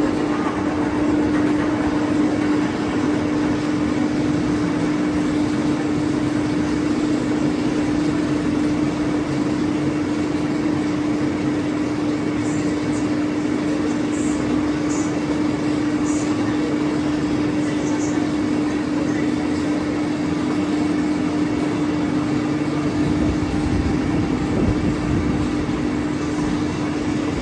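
Wing roller coaster train and ride machinery: a steady hum throughout over a continuous rumble, with a few faint high ticks around the middle.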